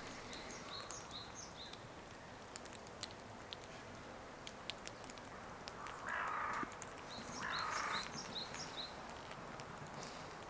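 Birds calling: two harsh, crow-like caws about six and seven and a half seconds in, and quick runs of short high chirps near the start and again near the end, over faint scattered ticks.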